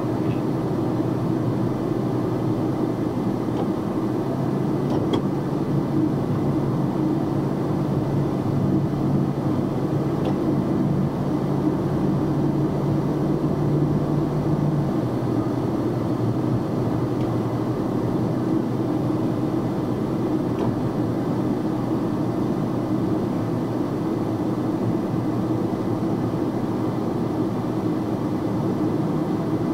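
Box truck driving, heard from inside the cab: a steady engine hum with road noise. The engine holds a steady pitch through the first half, then eases off.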